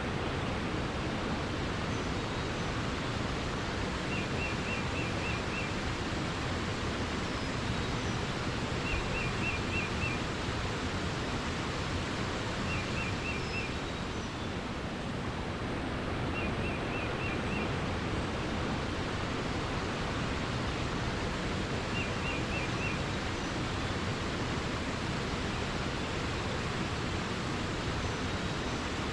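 Steady rush of flowing water, with a small bird repeating a short phrase of about five quick high notes every four to six seconds.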